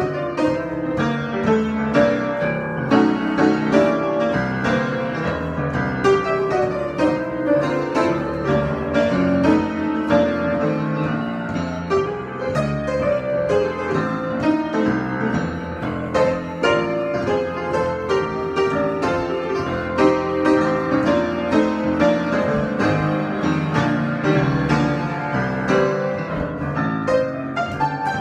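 Solo piano improvisation, played continuously with many quick notes over a full, sustained texture.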